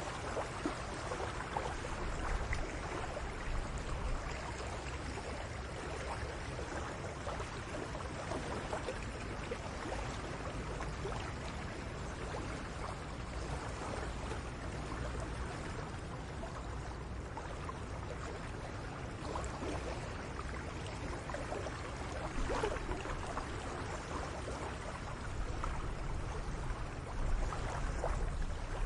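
Shallow salt water lapping and trickling at the edge of a calm cove, a steady wash with many small splashes.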